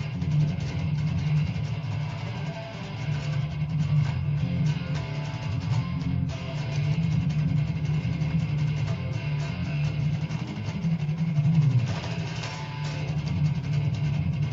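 Telecaster electric guitar played with fast, continuous picking in a driving train-beat blues rhythm, low notes pulsing steadily under quick brighter picked notes.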